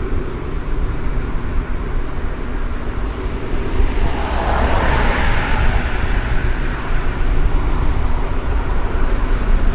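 Street traffic noise with a steady low rumble, and one vehicle passing close about halfway through, its sound swelling and fading.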